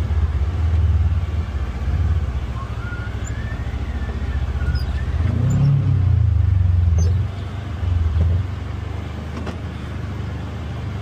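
Polaris Xpedition UTV engine running at low speed, swelling louder about halfway through, with a couple of light clicks later on.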